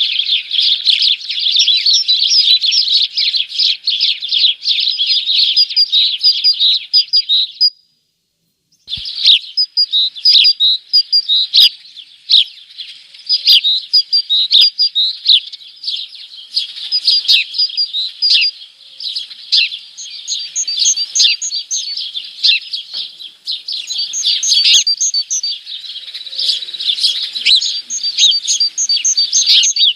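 Dense, continuous chirping of small songbirds. The sound cuts out completely for about a second near 8 s. Short runs of quick, high repeated notes rise above the chatter three times in the second half.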